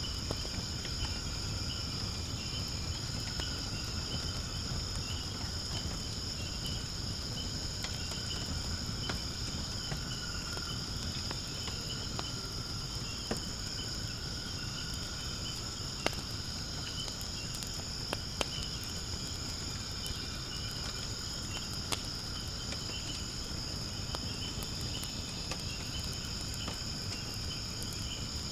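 Steady high-pitched chirring of insects over a wood fire burning in a fire pit, with a low rush and a few sharp crackling pops from the wood.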